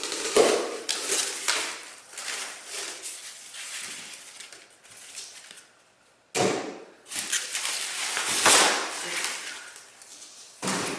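Packing material rustling and scraping as a winch is unwrapped and lifted out of its box, in irregular handling noises. After a short pause it starts again suddenly and loudly about six seconds in.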